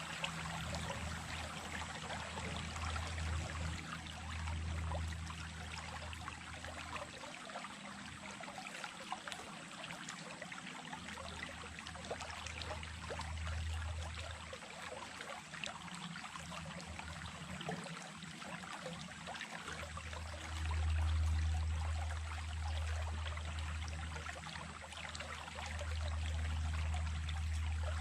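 Small stream flowing steadily, water splashing and trickling over stones, with a low rumble underneath that fades out for a few seconds and comes back louder in the last third.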